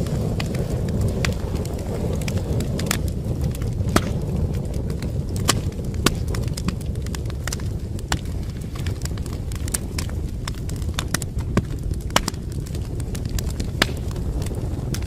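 Wood fire burning in a fireplace: a steady low rumble of flames, with many sharp, irregular crackles and pops from the burning logs.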